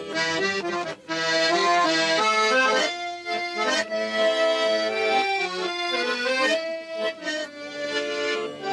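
Accordion playing an instrumental tango passage, a melody over held chords.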